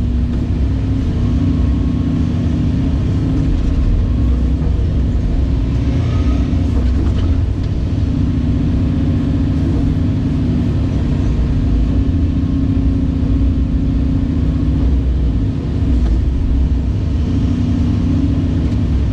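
Cat 349E excavator's C13 six-cylinder diesel engine running steadily at working speed while the machine digs and loads trucks.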